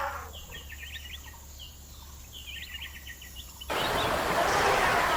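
Birds chirping in short, high calls over quiet forest ambience; about three and a half seconds in, an abrupt cut to a louder, steady rushing noise.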